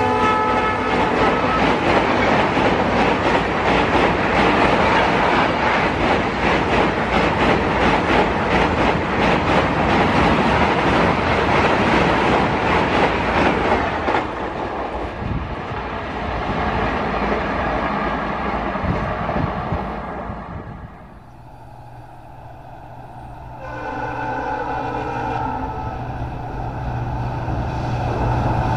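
Express passenger train running at speed: coaches rushing past with rapid clatter of wheels over rail joints, and a horn trailing off in the first second. About 14 s in, a cut to a train passing away and fading. From about 23 s a diesel locomotive's engine drone approaches, growing louder toward the end.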